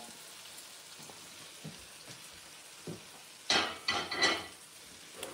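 Chicken frying in a pan, a faint steady sizzle, with two light knocks and a brief bit of voice about three and a half seconds in.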